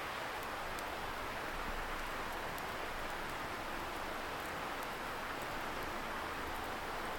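Steady rushing hiss of a distant river, even and noise-like, with a few faint, sharp crackles from a wood campfire scattered through it.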